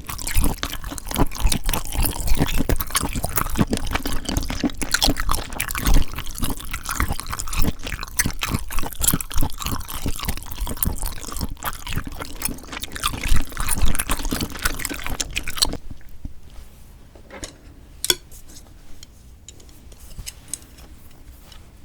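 Close-miked wet eating sounds of spicy cold mixed noodles with sea snails: dense sticky, squelching clicks and crunches, thinning to a few quieter sounds for the last several seconds.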